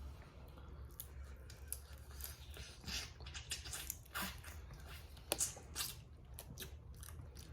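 Boiled crawfish being eaten by hand: shells cracking and peeling with wet squishing and chewing, a string of small irregular clicks and crackles, with one louder snap about five seconds in.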